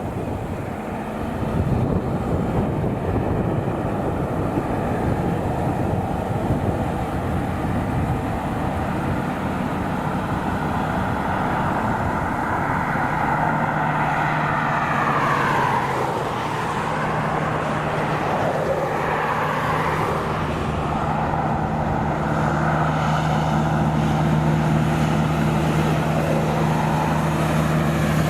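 Heavy trucks driving past, engine and tyre noise. About halfway through, a pitch drops as a truck goes by, then a steady engine drone holds to the end.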